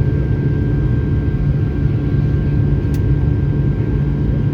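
Rolls-Royce engines of a Boeing 757-300 running steadily at high power during takeoff: a loud, even rumble with a thin steady whine above it. There is a brief click about three seconds in.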